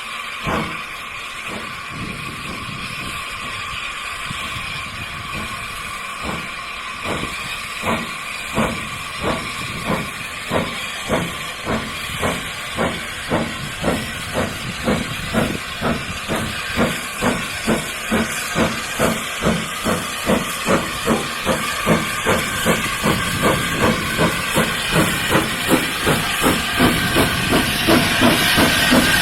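Steam locomotive exhaust chuffing over a steady hiss of steam, the beats coming faster and louder throughout, from about one a second to about two a second: the engine is gathering speed.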